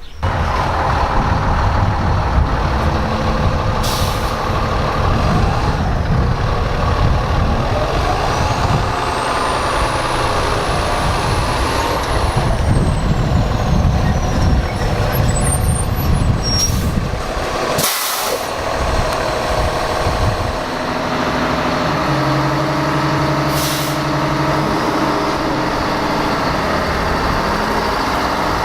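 Diesel fire engines running loudly as they pull out, with several short, sharp hisses of air brakes releasing.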